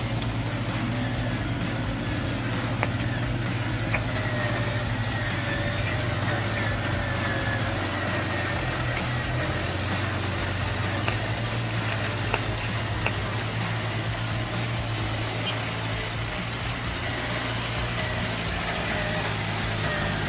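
Radio-controlled model truck running steadily: a low, even engine-like hum with a wavering higher whine over it, and a few faint ticks.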